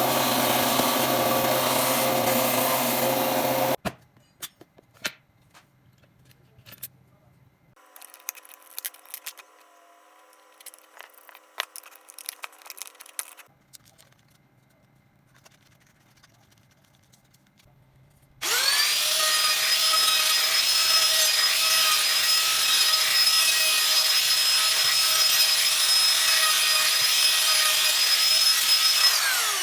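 Woodworking power tools working wood: a machine running under load stops about four seconds in, followed by quiet clicks and knocks of handling. About eighteen seconds in a motor spins up to a steady high whine, runs, and winds down near the end.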